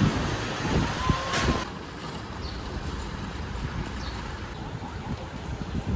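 Road traffic and vehicle engines making a steady low rumble, with a brief hiss about a second and a half in.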